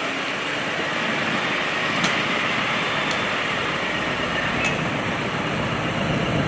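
A vehicle engine idling steadily, with a few faint ticks over it.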